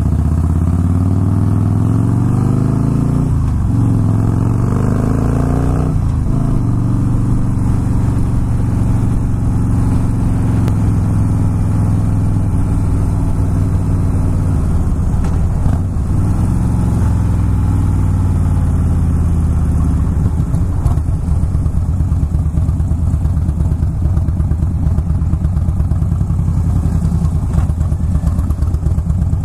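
Motorcycle engine heard from the rider's seat, accelerating with its pitch rising through two gear changes in the first six seconds. The pitch then drops slowly as the bike slows, and the engine runs steadily near the end.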